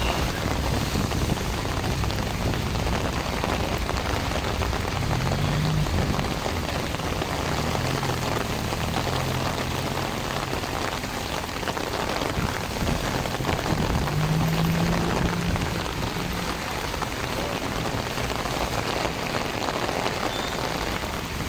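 Heavy rain pouring steadily in a storm. A faint low hum rises briefly twice, about five seconds in and again near the middle.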